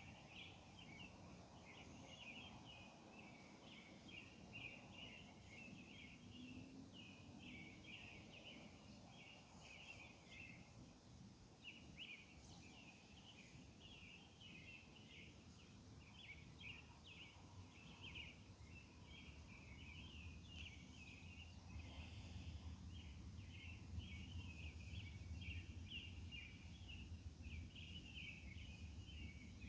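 Faint chorus of night insects chirping, a dense, pulsing band of short high calls that runs on without a break. A low rumble rises underneath past the middle and grows toward the end.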